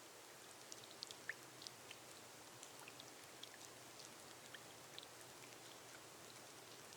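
Faint light rain on a glass roof: a soft, even hiss with scattered individual drops ticking on the glass.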